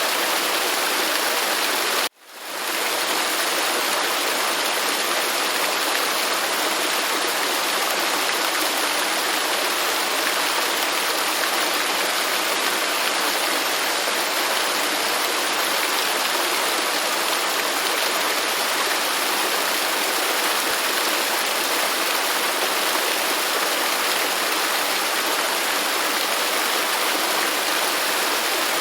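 Waterfall rushing with a steady, dense roar of falling water. About two seconds in, the sound cuts out suddenly and fades back up within half a second.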